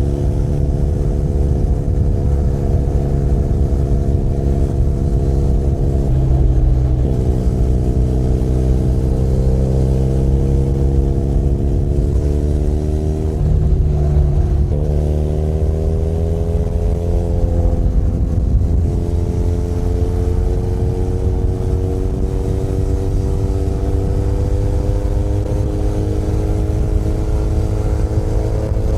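Benelli Leoncino 500 Trail's parallel-twin engine running under way. The engine note drops about six seconds in, then climbs gradually, and changes pitch again around fourteen seconds in as the rider works the throttle.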